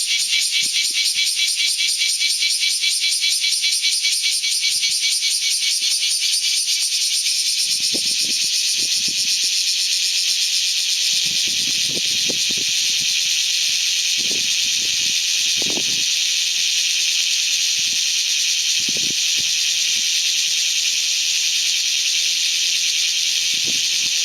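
Bear cicada (kumazemi, Cryptotympana facialis) singing loudly: a fast pulsing rattle for the first several seconds that runs together into a steady high buzz.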